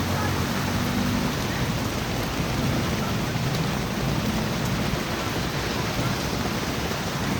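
Heavy rain pouring down in a steady, even hiss. A low hum fades out about a second in.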